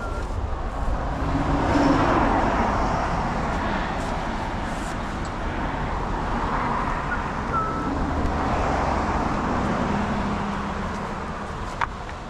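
Road traffic noise: vehicles going by, a steady rumble and hiss that swells about two seconds in and again later, then fades.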